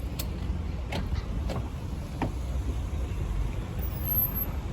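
Bus engine running with a steady low rumble, with a few short sharp sounds scattered through it.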